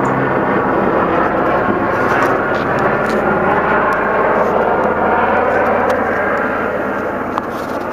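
Police helicopter flying overhead, its rotor and engine making a loud, steady drone.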